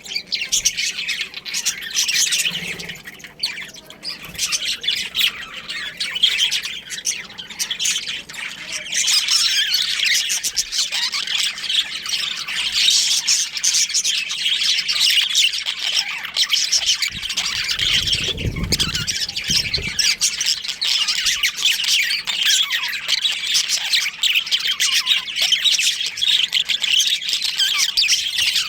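A colony of budgerigars chirping and chattering continuously, many birds at once. A brief low rumble comes through about two-thirds of the way in.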